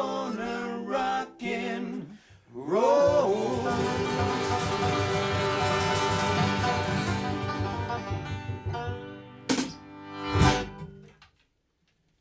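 A bluegrass band's banjo and accordion ending a rock song: the last chorus line is sung, then the band holds a final chord for several seconds with a sung note sliding up into it. Two sharp closing hits about a second apart finish it, and the music stops.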